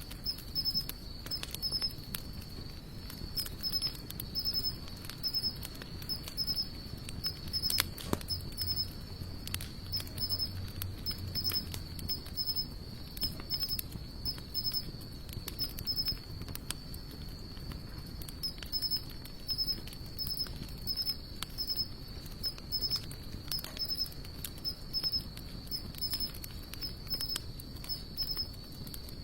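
Wood fire of sawtooth oak and mixed hardwood crackling, with irregular sharp pops, the loudest about eight seconds in. A steady, high-pitched pulsing chirp runs behind it.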